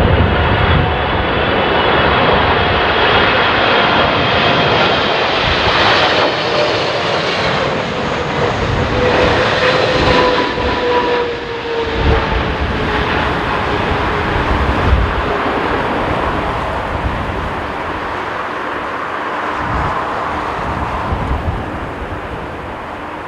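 Jet airliner's engines passing close by, a steady rushing noise with whining tones that slowly fall in pitch and fade over the second half. Low gusts of wind rumble on the microphone throughout.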